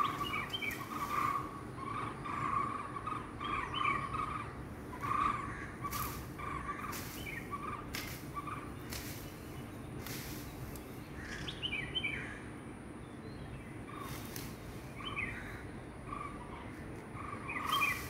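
Birds calling in a tree: a steady run of short repeated notes with higher chirps mixed in.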